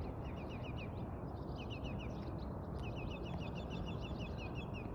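A bird calling in quick runs of short, falling chirps, about five or six a second, over a steady low background hum.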